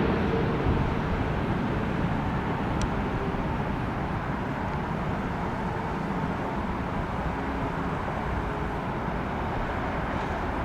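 A landed Boeing 777-200F freighter's jet engines, heard as a steady rumble that slowly fades as the aircraft rolls out away.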